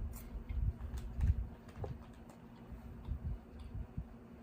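Irregular soft low bumps with a few faint clicks: handling noise close to the microphone.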